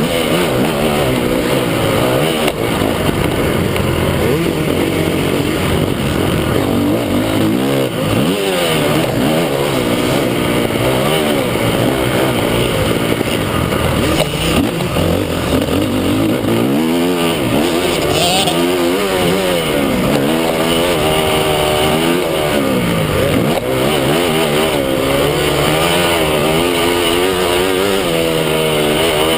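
Several motocross bikes' engines revving, the pitch climbing and dropping again and again through gear changes, with more than one bike heard at once.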